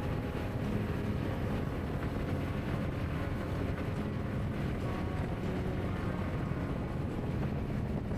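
Motorcycle on the move: steady engine and road noise with wind buffeting the microphone.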